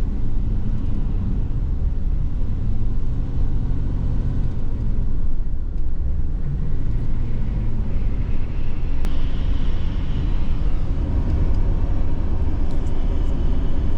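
A car's engine and tyre noise, heard from inside the cabin while driving: a steady low rumble with a slight rise and fall in pitch.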